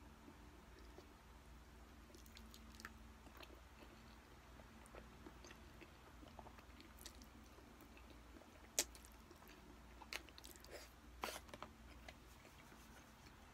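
Faint chewing and wet mouth sounds of someone eating a mouthful of sweet-style spaghetti, with scattered soft clicks and smacks; the sharpest comes about two thirds of the way through, with a few more close after it.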